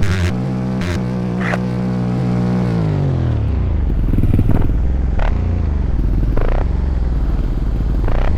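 Motorcycle engine held at steady revs, then the revs fall away about three seconds in and it settles into a low, rough rumble, with a few sharp clicks along the way.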